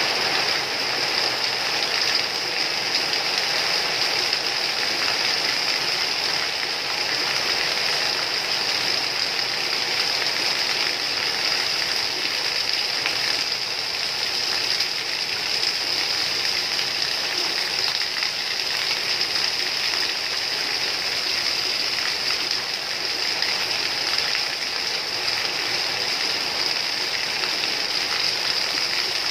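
Heavy rain falling steadily on a yard and its plants.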